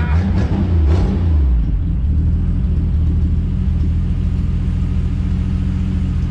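Plymouth Duster's slant-six engine running through a temporary exhaust with a cherry-bomb style muffler: its pitch wavers briefly as it comes down off a rev, then it settles to a steady idle about a second and a half in.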